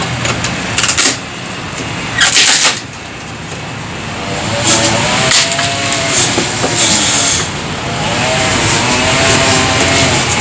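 Reciprocating saw (Sawzall) running, its motor pitch rising and falling as it cuts. Two short hissing bursts come before it, about one and two and a half seconds in.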